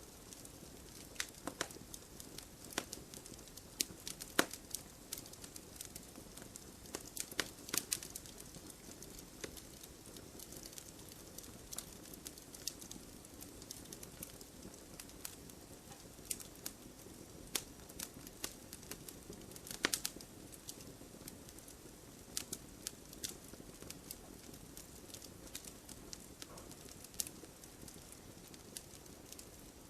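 Campfire burning: burning wood crackling and popping at irregular intervals over a soft, steady rush of flame.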